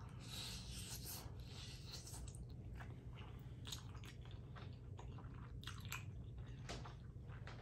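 Faint chewing of a mouthful of cooked macaroni and cheese, with small mouth clicks scattered throughout.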